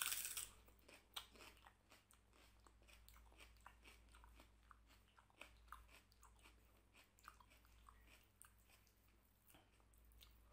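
A crunching bite into a raw red onion at the very start, the loudest sound, then close-miked chewing with many small crunches.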